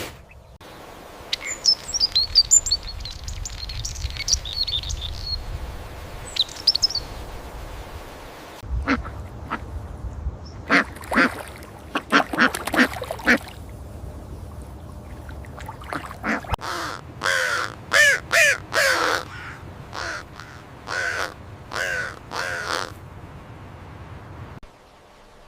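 Ducks quacking in repeated runs of short, nasal calls. High chirping runs through the first few seconds, and a low steady rumble sits underneath.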